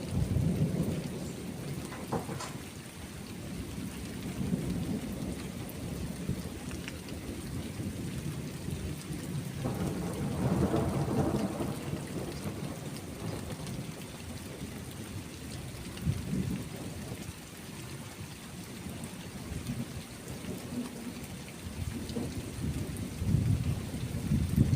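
Thunderstorm: steady rain with rolling thunder rumbling low. The thunder swells right at the start, again for a few seconds around the middle, and once more near the end.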